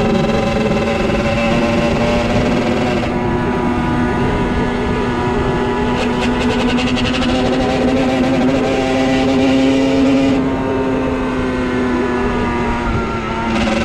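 50cc motorcycle engine running at steady high revs under way, its note rising slightly around ten seconds in and easing off near the end. A short run of fast clicking comes about six seconds in.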